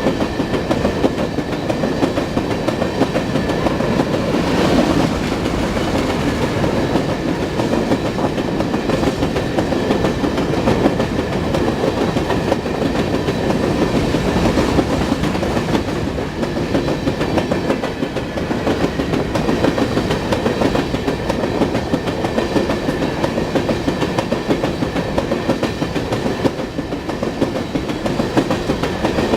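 Railroad cars of a passing train rolling by close at hand, their wheels clicking and clattering steadily over the rails.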